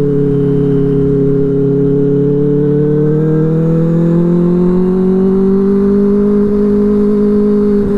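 Benelli 600i inline-four engine through an aftermarket IXIL exhaust, running under way. Its pitch rises gradually as it speeds up a few seconds in, holds steady, then eases off slightly near the end.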